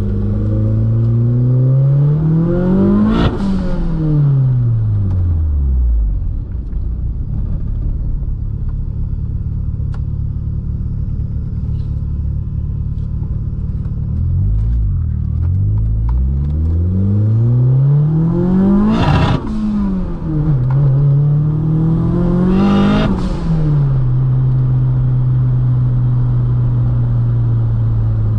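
Volkswagen Mk2 Golf GTS engine revving up hard under acceleration and dropping away three times, each peak ending in a short burst of noise, then holding steady revs near the end.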